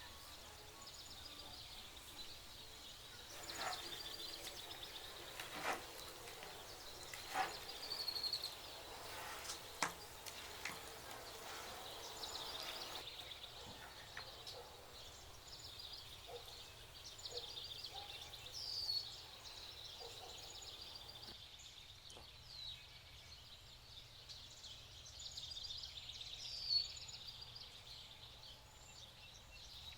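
Birds chirping now and then over a faint, steady outdoor hiss, with a few soft clicks and knocks in the first half.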